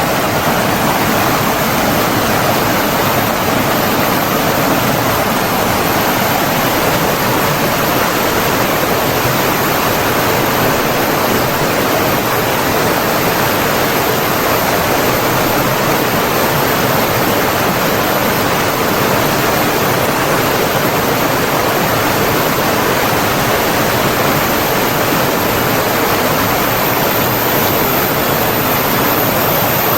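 Flowing water rushing steadily, as from a stream or waterfall, an even unbroken noise with no change in level.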